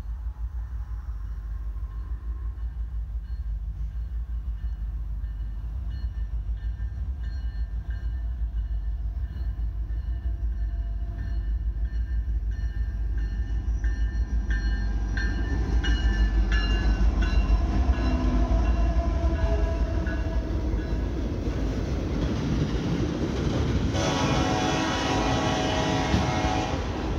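Freight train diesel locomotive sounding its air horn in a series of blasts as it approaches, the horn's pitch dropping slightly as the lead units pass, over a low engine rumble that grows louder. About three-quarters of the way through, freight cars roll past close by with a loud, rushing rattle of wheels on rail.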